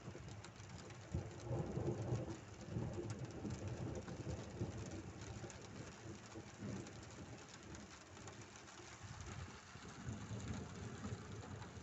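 Rain falling hard in a thunderstorm, with thunder rumbling low underneath.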